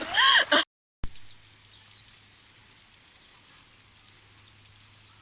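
A voice cut off by an edit, a moment of dead silence, then faint outdoor ambience with a few short high bird chirps over a steady low hum.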